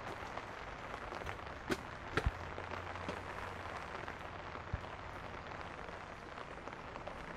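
Steady rain falling, with a couple of light knocks around two seconds in and another near five seconds.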